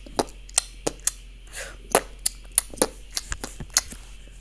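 An irregular series of sharp clicks and taps, about two or three a second, with a short rising squeak about a second and a half in.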